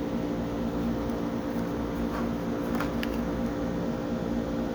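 Split air conditioner's indoor-unit DC fan motor running with a steady hum, with a few faint ticks near the middle.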